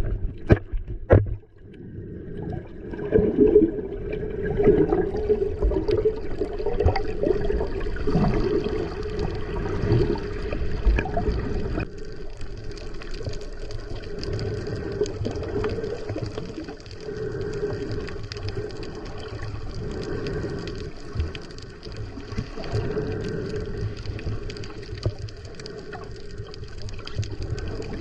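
Muffled water sound heard with the camera underwater: a steady swash of water moving, strongest in the low-middle range, after a few sharp knocks in the first second or so.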